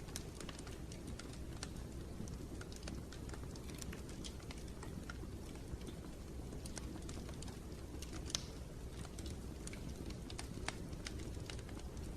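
Wood fire in a fireplace crackling: a steady low rumble of flames with irregular sharp pops, the loudest about eight seconds in.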